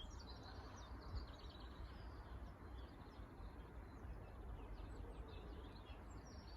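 Small birds chirping and twittering in quick short calls throughout, over a steady low rumble of wind on the microphone.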